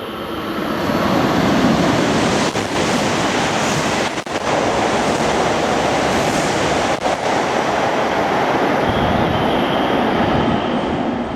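Tohoku Shinkansen train passing through the station at high speed without stopping: a loud rush of air and wheel noise. It swells over the first second or two and holds steady for about ten seconds, with a few brief dips.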